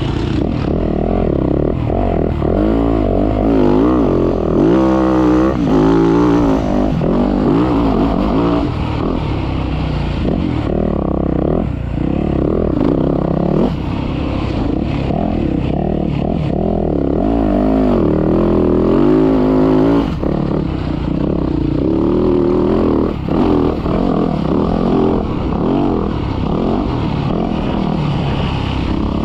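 Motocross dirt bike engine being ridden hard, revving up and down continuously, its pitch rising and falling with the throttle and gear changes.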